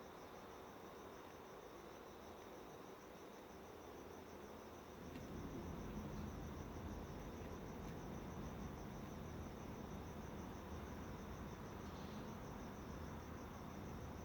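Steady, high-pitched insect trill, continuous and finely pulsed, over a low background rumble that gets louder about five seconds in.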